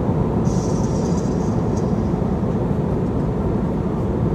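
Steady low rumble of an airliner cabin in flight: engine and airflow noise heard from inside the cabin. A brief faint high hiss sits on top of it about half a second in.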